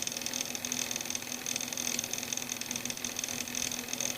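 Noisy laptop cooling fan running, a steady whirring buzz with a fine rapid rattle over a constant low hum. It is very noisy, the sign of a fan in need of fixing.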